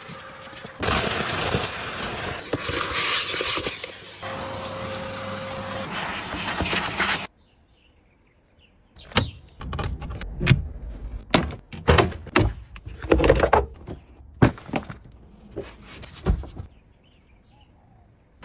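Work on the car: a loud, steady rushing noise for about six seconds that cuts off suddenly. After a short silence comes a string of irregular sharp knocks and bangs, like parts being struck or pulled off.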